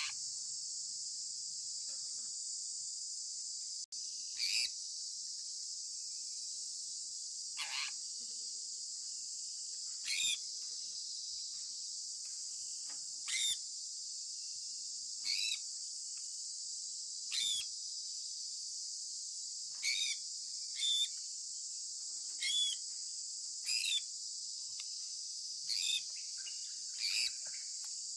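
Sun conure parrot giving short chirping calls, about a dozen, spaced roughly two seconds apart. Under them runs a steady high insect trill, like crickets.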